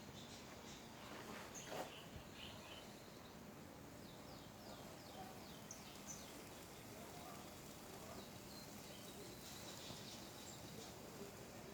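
Faint steady background noise with small birds chirping in the distance, including a quick run of short high chirps about four seconds in. A single sharp click comes about two seconds in.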